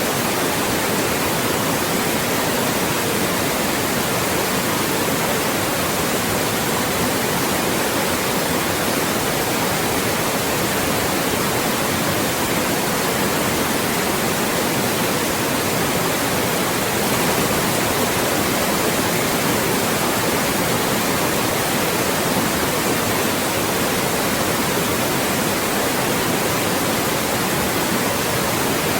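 Loud, steady white noise: an even hiss across the whole range, unchanging throughout.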